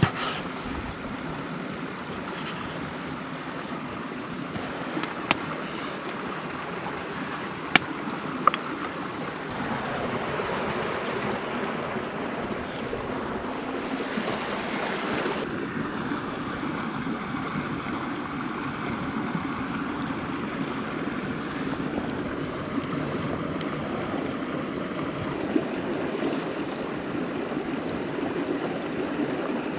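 Mountain stream flowing steadily, with a few sharp clicks scattered through it.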